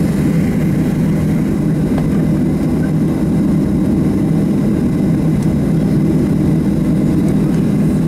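Steady low drone of a Boeing 737-700's CFM56 turbofan engines running, heard from inside the passenger cabin.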